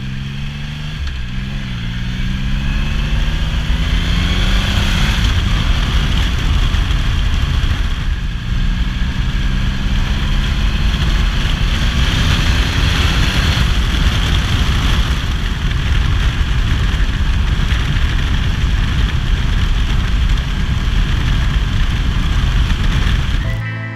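Triumph Rocket III Roadster's 2.3-litre inline-three engine on its stock exhaust, pulling away with its pitch rising over the first few seconds, then running at road speed under heavy wind rush on the microphone. It cuts off abruptly near the end.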